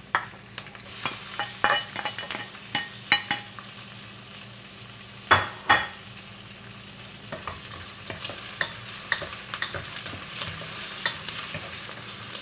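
Shrimp, garlic and onion sautéing in oil in a stainless steel wok: a steady light sizzle, with scattered clicks and scrapes of a spatula stirring against the pan. A pair of sharper knocks comes near the middle.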